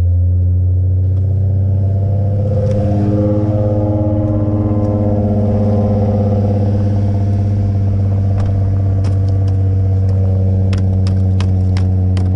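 Ford Mustang engine idling steadily just after a cold start, its pitch wavering briefly a few seconds in. From about eight seconds in, a series of sharp clicks comes over it, several a second.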